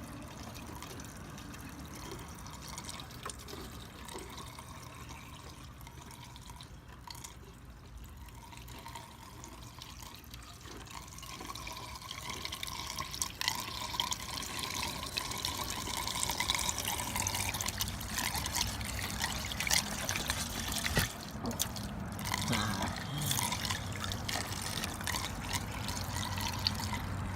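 Windshield washer fluid being poured from a jug into a car's washer fluid reservoir, a steady trickle that grows louder about halfway through.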